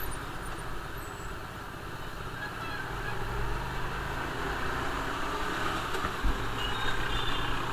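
Hyosung GTR 250's 250 cc V-twin running steadily at road speed, under a steady rush of wind and road noise on the microphone, with a single thump about six seconds in.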